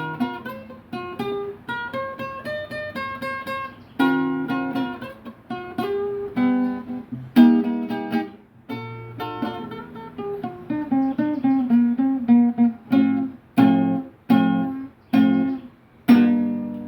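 Solo acoustic guitar improvisation: picked single-note melodic lines mixed with struck chords, ending with a series of separate strummed chords about a second apart.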